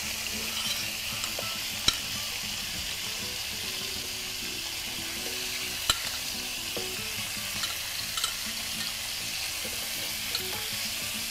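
Chicken pieces frying in hot oil in a karai, a steady sizzle with a stir now and then. A sharp click comes about two seconds in and another about six seconds in.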